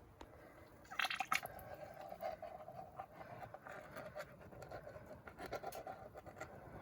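Water sloshing and dripping in a gold pan as pay dirt is worked, with a brief louder splash about a second in and small ticks throughout.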